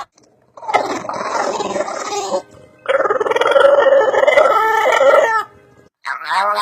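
Dog giving two long, drawn-out vocal calls, each lasting about two seconds, with a short pause between them.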